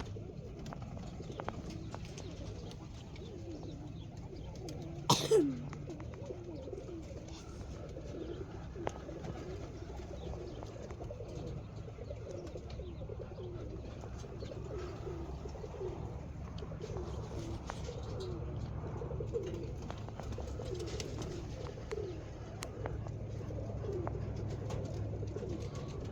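Roller pigeons cooing over and over, with many overlapping short calls. About five seconds in there is a single loud sharp knock.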